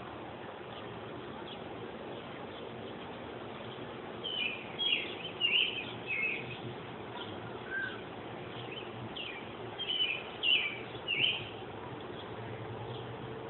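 Small birds chirping in two short runs of quick high notes, about four seconds in and again about ten seconds in, over a steady background noise.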